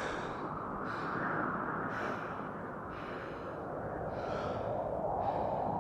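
A man's heavy, out-of-breath panting sound effect, about one breath a second, after running, over a steady rushing noise like wind.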